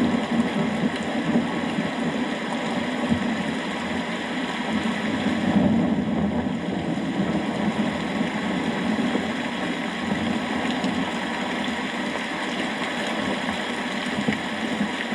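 Steady heavy rain: a dense, continuous hiss with a strong low rush underneath.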